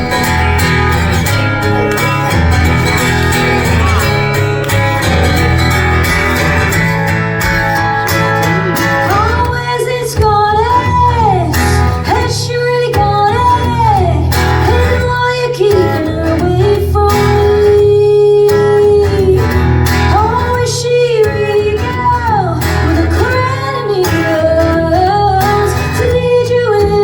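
Live rock band playing a song: strummed guitar chords over a steady bass, with a woman's voice singing the melody from about nine seconds in.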